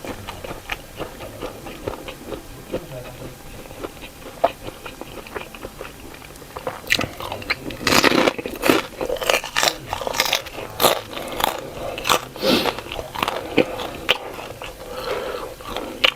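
A person chewing and biting food close to the microphone: soft, wet mouth sounds at first, then a run of crisp, sharp crunches from about seven seconds in that ease off near the end.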